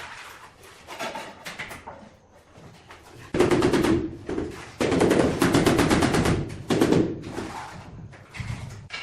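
A power tool running with a fast, loud rattle of rapid strokes. It starts about a third of the way in, dips briefly, then runs again for about two seconds before stopping. Quieter handling knocks come before and after.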